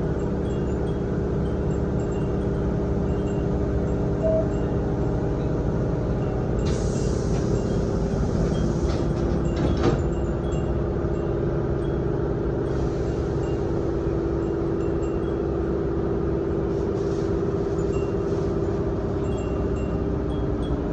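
Wind chimes hung in a Nose Electric Railway 7200 series train car tinkling lightly over the steady running noise of the train, heard from inside the carriage. A hiss rises about seven seconds in, with a sharp knock near ten seconds.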